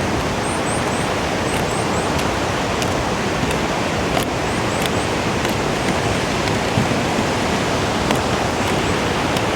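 Steady, even rushing of a river flowing below the bridge.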